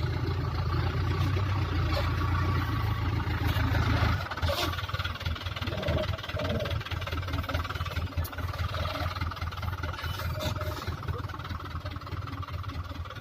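Diesel engine of a Hino heavy-duty dump truck running, louder for about the first four seconds, then settling to a lower, steady idle.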